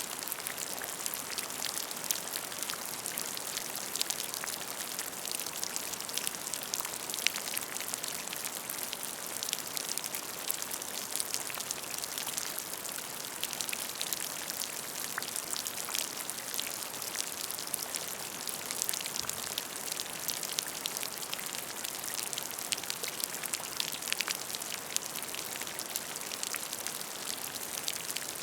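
Steady rain falling onto a puddle of water, a dense patter of many small drop splashes with no letup.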